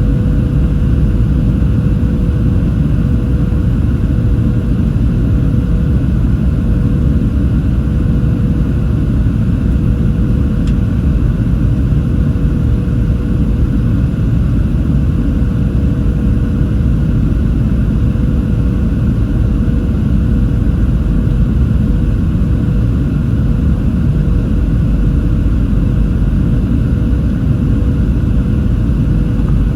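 Steady cabin noise of a Boeing 737-700 with CFM56-7B engines: a dense low rumble of engines and airflow with a constant hum over it, unchanging throughout.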